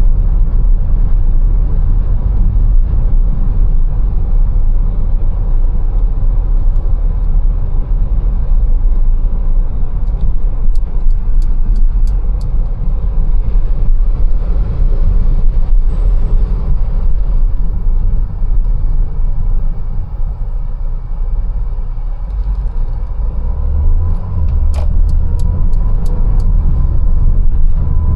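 A Mercedes-Benz A180 driving in town, with steady low engine and road rumble. Twice a short run of evenly spaced clicks comes in, about two and a half a second: once around the middle and again near the end.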